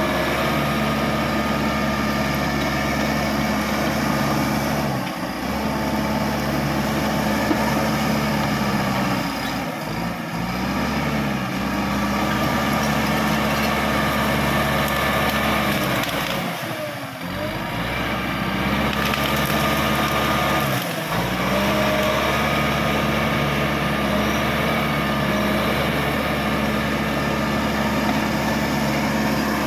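Caterpillar D5K XL bulldozer's diesel engine running under load. Its pitch sags and recovers several times as the load comes and goes.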